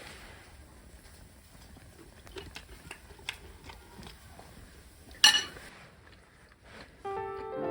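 Light clicks and clinks of utensils and dishes during a meal, with one loud sharp clack about five seconds in. Background music comes in near the end.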